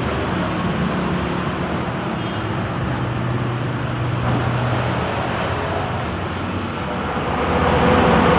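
Bus engine running with road and traffic noise, a steady low rumble that grows louder near the end.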